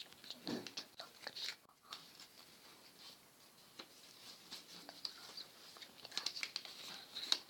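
Paper being folded and creased by hand, with irregular crinkling and rustling that grows busier near the end.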